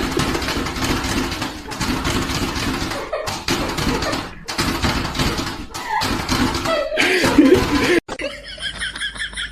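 People laughing and talking, breaking off abruptly a few times.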